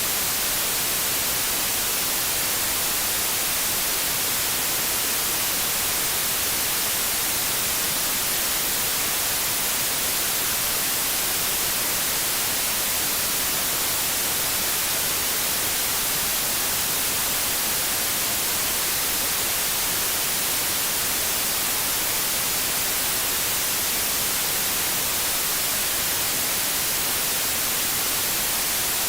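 TV static: an even, steady hiss of white noise, strongest in the highs, with no change.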